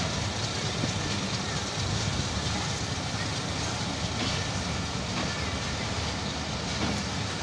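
Pakistan Railways passenger coaches rolling past as the train pulls out of the station, a steady rumble of steel wheels on the rails.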